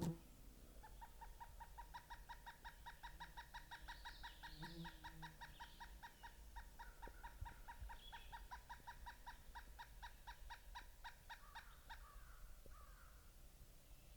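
Pileated woodpecker calling: a long, even series of identical notes, about seven a second, lasting some eleven seconds and stopping abruptly. Faint, higher chirps from another bird come over it.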